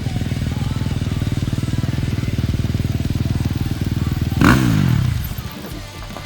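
A motocross bike's engine runs at a steady pitch. About four and a half seconds in it gives a sudden loud burst whose pitch falls away as it dies down.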